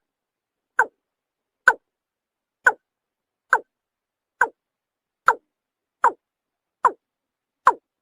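Watercock (kora) calling: a steady series of about nine short, hollow notes, one a little under every second, each dropping in pitch.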